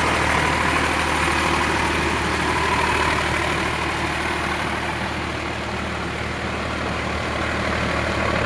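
Sonalika RX 47 tractor's diesel engine running steadily with a low hum, easing off slightly in level about halfway through.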